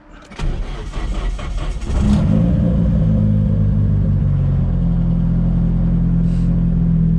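Nissan S14's engine cranking and catching about two seconds in, then settling into a steady idle.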